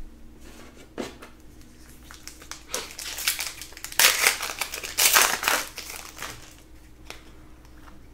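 Trading-card pack wrapper being crinkled and torn open, with two louder crinkly bursts about four and five seconds in.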